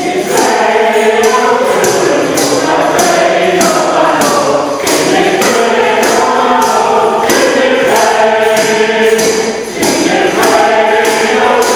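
A group of voices singing together, with a percussive shake or strike keeping an even beat about twice a second.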